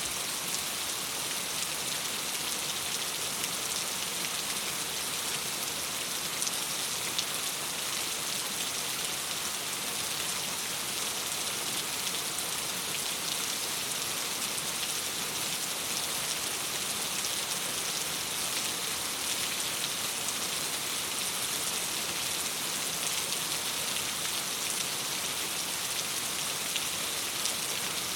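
Steady rain pattering on a window, a dense, even hiss of drops with small scattered ticks.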